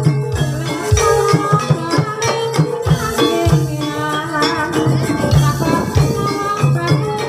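Javanese gamelan music accompanying an ebeg hobby-horse dance: pitched metallophones ringing a repeating melody over quick, frequent low drum strokes.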